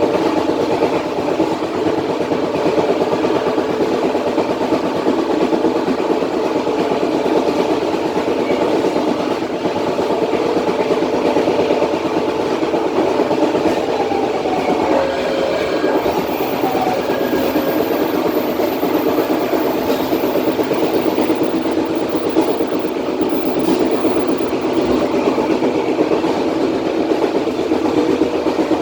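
Matarmaja passenger train running along the line, heard from the tail end of the train: a steady, loud rumble of wheels on rail.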